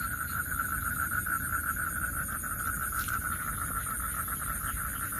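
Night chorus of calling insects in a wet field: a steady pulsing trill in the middle range, with a fast, even high-pitched ticking above it.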